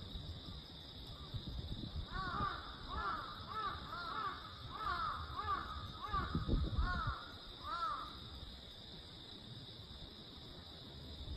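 Crow cawing over and over, about ten harsh calls in six seconds. A steady insect trill runs underneath, and low gusts of wind rumble on the microphone.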